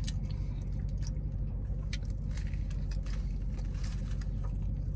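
A person chewing a mouthful of a fried chicken and waffle sandwich: faint scattered mouth clicks and smacks over a steady low hum inside a running car.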